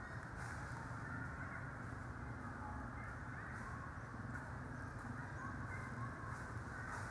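Scattered short animal calls, faint against a steady outdoor background hum.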